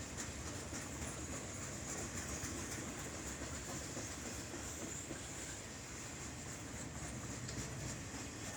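Freight train rolling past, a steady rumble of its wheels on the rails.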